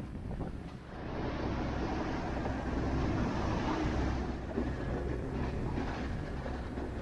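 Sailboat's engine running steadily under load, motoring against wind and current, with a rush of wind and water noise that swells about a second in and eases off a few seconds later.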